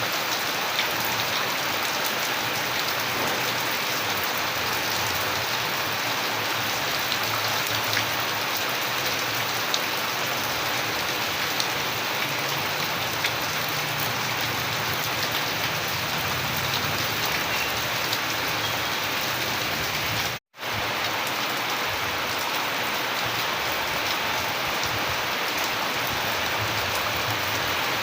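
Steady rainfall, a dense even hiss with individual raindrops ticking now and then. The sound cuts out completely for a split second about two-thirds of the way through, then resumes unchanged.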